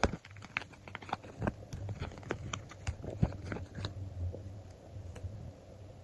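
Stickers and paper being handled: a quick run of small taps, clicks and crinkles, busiest in the first four seconds and thinning out after, over a low steady hum.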